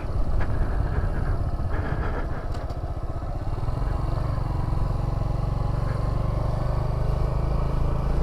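Motorcycle engine running at low speed, settling into a steady idle about three seconds in.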